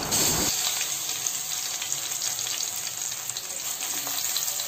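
Grated raw mango sizzling in hot ghee in a pan: a steady hiss with small crackles.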